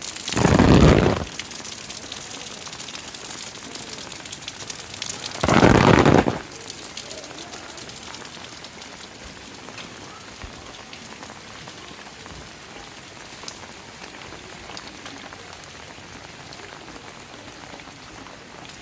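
Steady rain hiss, with two loud rushing bursts about a second long: one near the start and one about six seconds in. The rain is a little quieter after the second burst.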